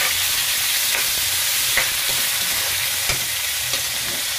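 Garlic, onion and tomato sizzling in hot oil in a metal wok, stirred with a metal spatula that scrapes and knocks against the pan a few times.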